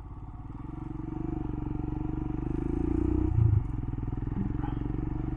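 Royal Enfield Himalayan's single-cylinder engine running under way, its steady pulsing getting louder over the first three seconds, with a brief break about three and a half seconds in, then running on steadily.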